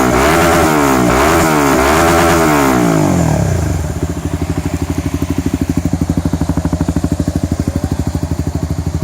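Honda CBR150's single-cylinder engine through a Proliner carbon long silencer with no dB killer, blipped up and down several times before it drops back to a steady, pulsing idle about three and a half seconds in.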